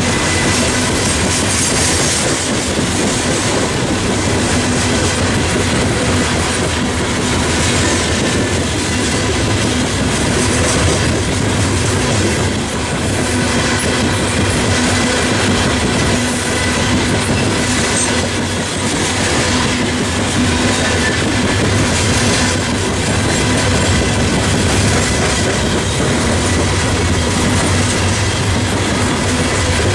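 Loaded freight train's steel coal hopper cars rolling past close by: a steady rumble of wheels on rail with repeated clicking as the wheels cross rail joints, and a faint steady ringing tone over it.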